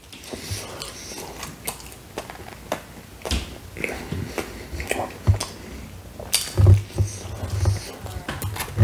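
Close-miked chewing of a mouthful of Hawaiian pizza: a steady run of small wet mouth clicks and smacks, with a few deeper thuds about two thirds of the way through.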